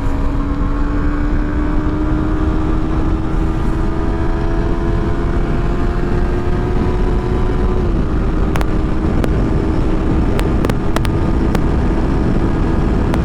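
Yamaha R3's parallel-twin engine pulling hard at high revs, its note climbing slowly for about eight seconds, dipping at an upshift and then holding steady. Heavy wind rush covers the microphone, with a few sharp clicks near the end.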